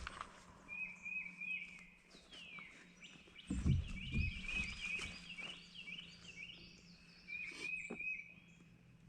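A bird calling a long run of quick, repeated chirped notes, with a burst of low rustling or handling noise about three and a half seconds in.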